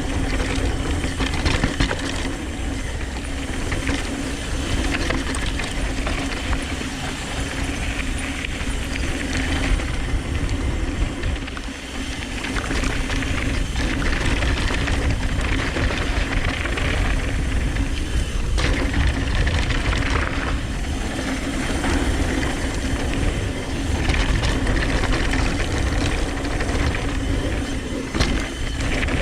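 Downhill mountain bike descending a dirt trail at speed: wind rushing over the microphone, with tyre noise and the bike's rattle and ratcheting hub clicks.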